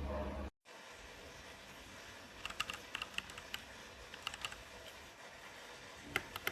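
Typing on a DAREU EK87 V2 mechanical keyboard: irregular, quiet key clicks in short runs of several presses.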